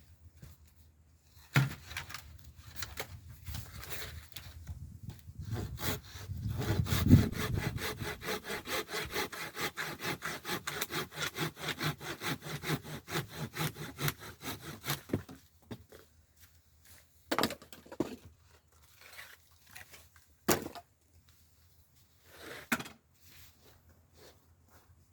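Hand saw cutting through scrap wood in quick, even strokes for about ten seconds, then stopping, followed by a few separate sharp knocks of wood.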